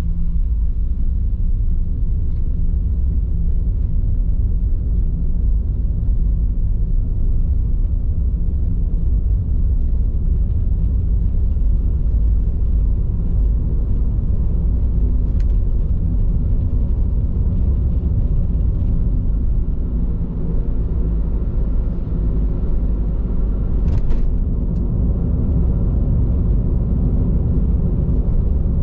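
Steady low rumble of road noise heard inside a moving car, from Bridgestone Regno tyres rolling on the road, with a couple of faint ticks partway through.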